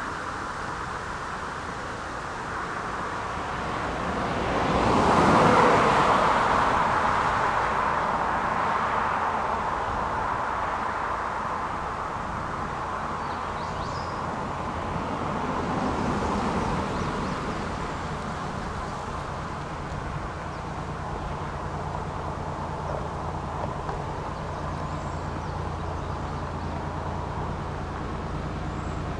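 Road vehicles passing: one car goes by loudest about five seconds in and a smaller one near the middle. From about two-thirds through, a steady low engine drone sets in.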